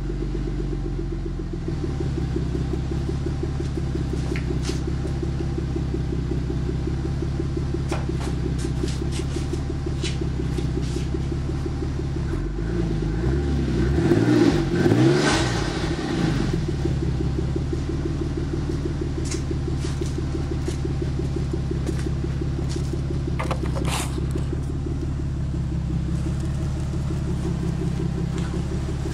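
Toyota Aristo's 2JZ-GTE twin-turbo inline-six idling steadily through a cat-back dual exhaust, revved once about halfway through, rising in pitch and falling back to idle. A few light clicks are scattered through the idle.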